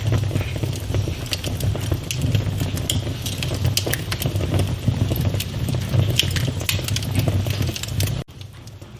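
Wood fire in a fireplace crackling, with many sharp pops and snaps over a low steady rumble. About eight seconds in, the rumble cuts off suddenly and the crackling goes on much quieter.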